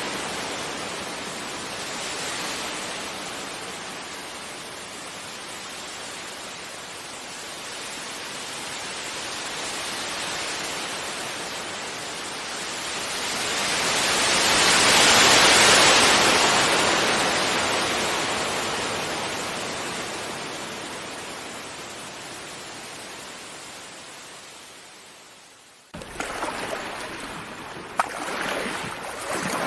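Sea waves breaking on a beach: a wash of surf that swells to its loudest about halfway and slowly ebbs away. Near the end it cuts suddenly to a choppier stretch of surf with one sharp click.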